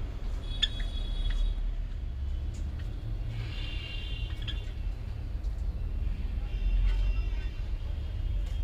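A steady low rumble with small birds chirping over it in three short bursts: about half a second in, near the middle, and again near the end.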